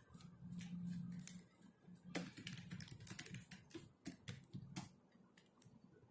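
Typing on a computer keyboard: soft, irregular key clicks, thinning out in the last second or so.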